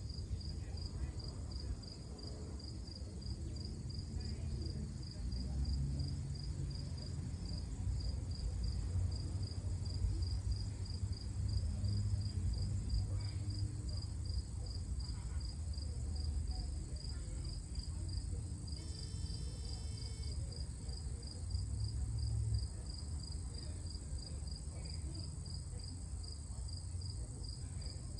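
Insect chirping in a steady, even pulse a few times a second, high-pitched, over a low rumble.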